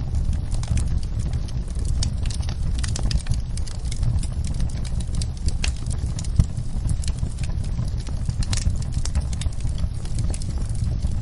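Wood fire in a fireplace crackling: a continual run of small snaps and pops over a low rumble of the flames, with one louder pop about six seconds in.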